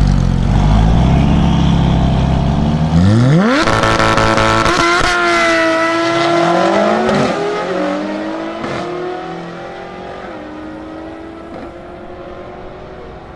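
Sports car engine and exhaust rumbling at low revs, then revving sharply about three seconds in and accelerating away. Its pitch drops in small steps as it fades into the distance.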